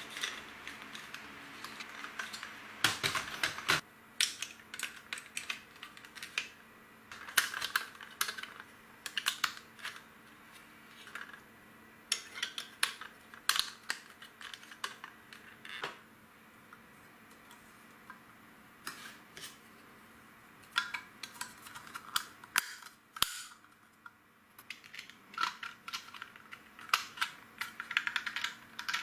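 Plastic LEGO bricks clicking and snapping as they are handled and pressed together: irregular clusters of sharp clicks with short pauses between them.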